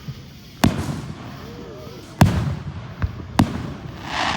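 Fireworks exploding: three sharp booms, the second the loudest, each echoing away, then a crackling hiss near the end.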